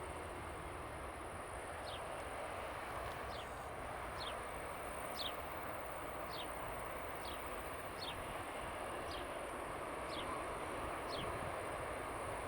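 Steady distant jet rumble of an Airbus A320-232's IAE V2500 engines idling while lined up on the runway, with a bird giving short falling chirps about once a second over it.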